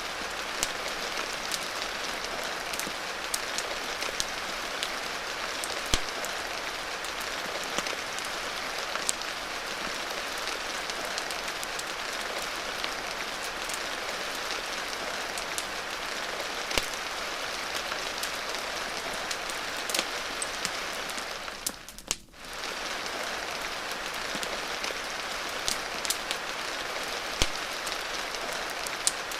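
Steady rain hiss with scattered sharp pops and crackles from a wood fire. About three quarters of the way through, the sound briefly fades out and comes back.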